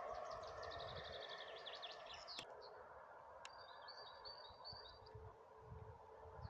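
Small birds chirping: a quick run of high notes, then a short trill about halfway through, over a faint low rumble that dies away.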